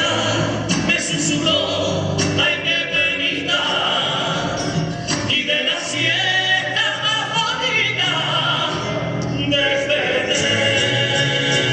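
Carnival comparsa choir singing in several voices, accompanied by guitars.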